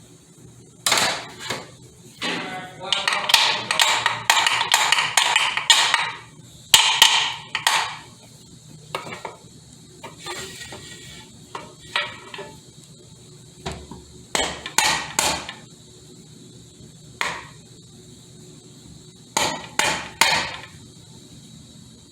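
Hand tools knocking and clinking on the metal parts of a Ford AOD automatic transmission while a snap ring is being worked out. Irregular sharp taps, some in quick runs, others spaced a few seconds apart.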